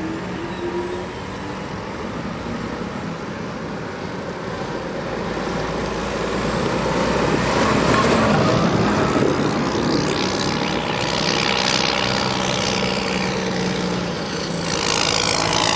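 Tractor engines running as tractors drive past, getting louder to a peak about halfway through and swelling again near the end before cutting off suddenly.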